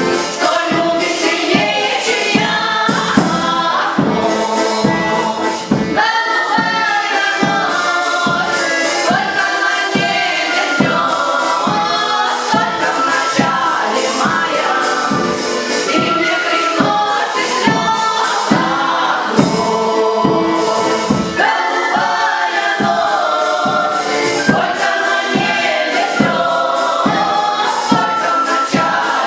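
A choir singing a song over instrumental accompaniment with a steady beat.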